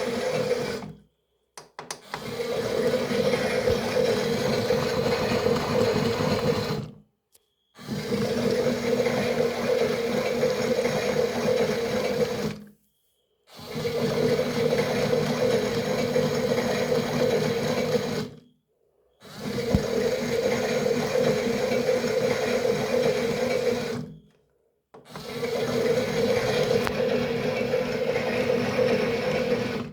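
A toy washing machine's small electric motor running with a steady whirring hum. It stops dead for a moment about every five or six seconds, then starts again.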